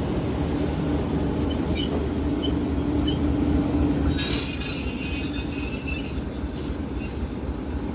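Passenger train coaches rolling along the platform, steel wheels squealing against the rails over a steady low rumble. The squeal changes pitch about four seconds in.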